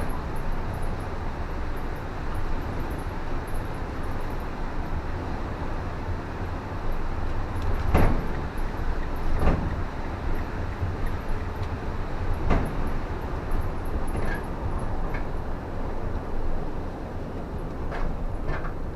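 Car driving on a wet road: a steady rumble of road and engine noise, with a few sharp knocks about eight, nine and a half and twelve and a half seconds in, and two more near the end.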